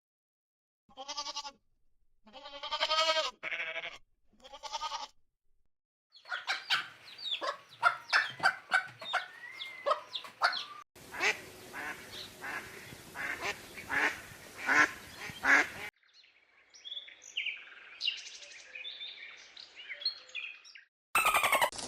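Goose honking in three short calls, then a run of different clips with poultry clucking and calling and, near the end, small birds chirping.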